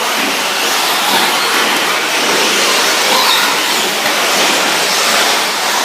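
A pack of 1/10-scale electric 4WD short course RC trucks racing on a dirt track: a steady, dense whirring rush of motors, gears and tyres with no breaks.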